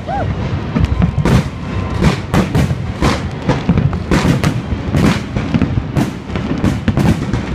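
Fireworks salute: aerial shells bursting in quick, irregular succession, a dozen or so loud bangs over a constant low rumble of the display.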